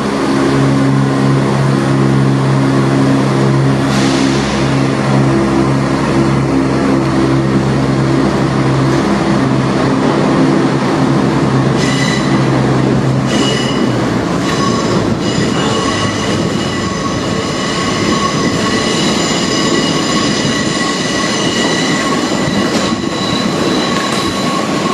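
A pair of Class 170 Turbostar diesel multiple units pulling out. A steady low diesel engine drone for the first dozen seconds or so, then high-pitched wheel squeal with several ringing tones from about twelve seconds in, over the rumble of the wheels.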